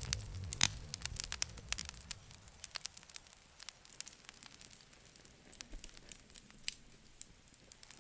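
Wood campfire crackling, with irregular sharp pops and snaps. A low rumble of flame in the first couple of seconds dies away, leaving sparser crackles.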